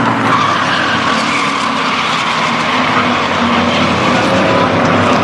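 Several racing trucks' engines running at speed around a short oval track, a loud, steady mix of engine notes.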